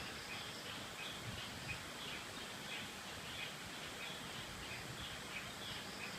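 Steady rush of creek water under repeated short, high chirping calls from rainforest wildlife, about two a second.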